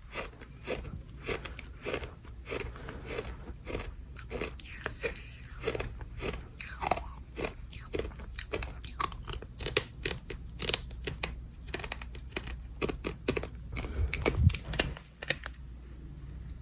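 Dry, hardened sand crunching and crackling as it is crushed and scooped with a spoon, close to the microphone. Many short, irregular crunches come several a second.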